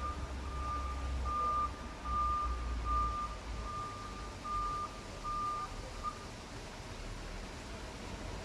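Reversing alarm of a heavy vehicle beeping steadily, about one and a half beeps a second, over the low rumble of its diesel engine; the beeping stops about six seconds in.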